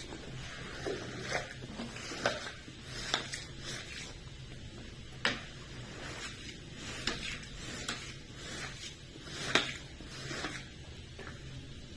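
Hand cleaning tools working a rug: irregular swishing strokes with a few sharp clicks, the sharpest about five and nine and a half seconds in.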